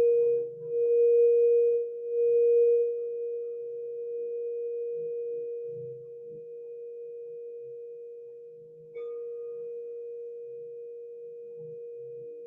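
Singing bowl ringing one steady tone that pulses in loudness for the first few seconds, then slowly fades. It is struck again about nine seconds in, bringing back higher overtones.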